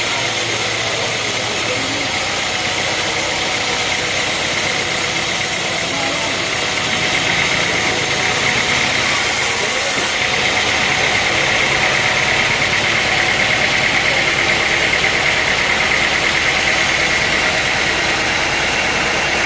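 Sawmill machinery running steadily, a continuous mechanical noise with a steady high hum that grows louder about halfway through.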